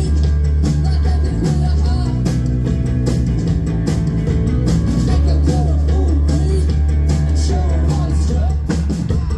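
Rock band playing live: electric guitar, bass and drums under a sung vocal line.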